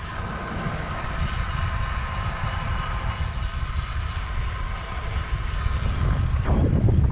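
Wind buffeting the microphone of a camera on a moving road bike, a low rumble throughout, with a steady whine over it.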